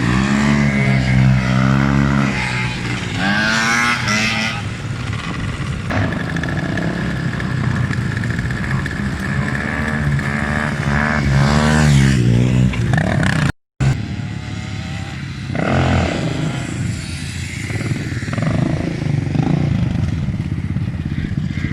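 Motorbike engines revving, their pitch rising and falling again and again, with a momentary dropout about two-thirds of the way through.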